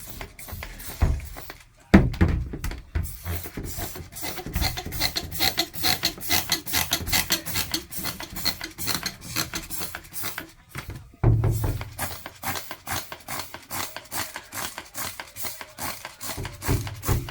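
Hand trigger sprayer pumped rapidly, spraying degreaser over a vintage sewing machine: a fast even run of short spray hisses, several a second, with a brief break about ten seconds in. A loud knock sounds about two seconds in.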